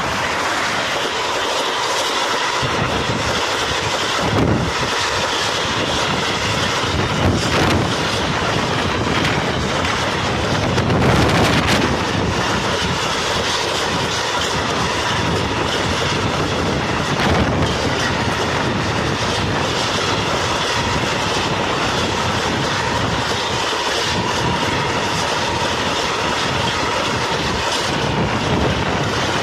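A rake of empty flat freight wagons rolling past close by: a loud, steady rumble of steel wheels on rail with clickety-clack over the rail joints. A few louder knocks stand out, the loudest about eleven seconds in.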